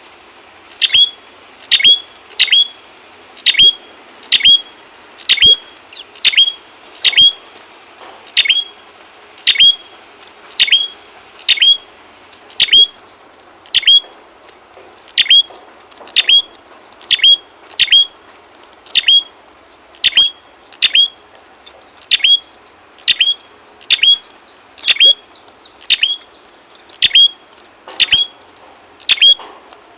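Recorded calls of a prenjak kepala merah, a small songbird, used as a bird-trapping lure call: short sharp chirps, each a quick downward sweep, repeated about one to two times a second and often in pairs, over a faint steady hiss.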